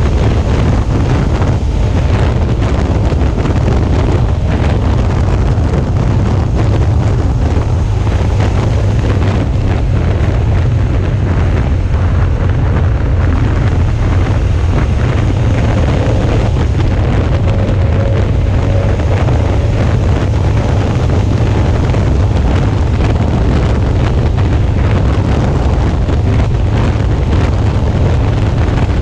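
Steady wind rush buffeting the microphone of a camera mounted on a Suzuki V-Strom 650 motorcycle at road speed, with the bike's V-twin engine and road noise running underneath.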